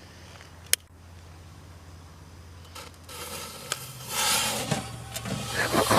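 A sharp click, then a firework fuse sizzling and a smoke firework starting to hiss, loudest about four seconds in, with excited voices starting near the end.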